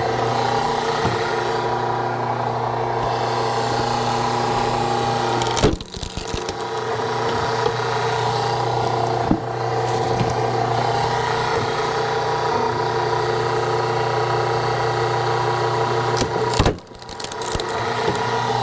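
Hydraulic log splitter running with a steady hum as it presses through a knotty log. Two sharp cracks come about six and seventeen seconds in as the wood gives way.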